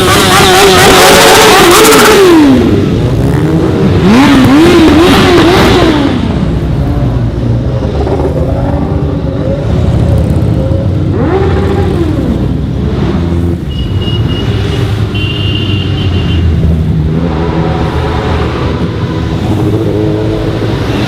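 Motorcycle engine revved hard several times in quick succession, its pitch climbing and dropping. It then settles into lower, rougher running with one more rev about halfway through.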